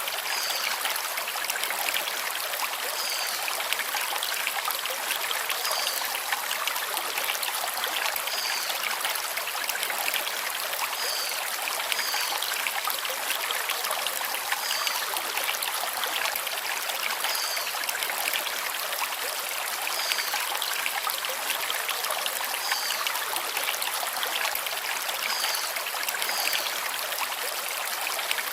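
Stream water running over stones in a steady rush. A bird repeats a short, high, falling call about every three seconds.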